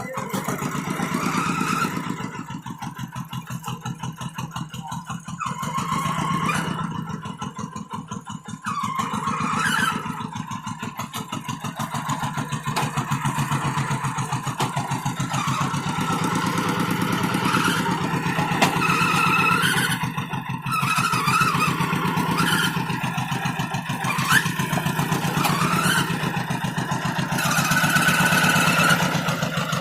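Tractor engine running under load while pulling a moldboard plow, with a fast, even firing beat and its level rising and falling several times as the load changes.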